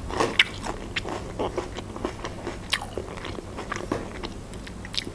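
A person chewing a crisp slice of yellow bell pepper: irregular crunches and wet clicks of chewing.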